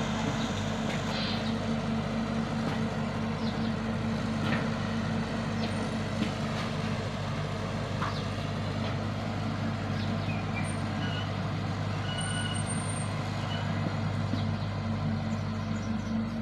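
Excavator's diesel engine running steadily, with a few faint knocks over it.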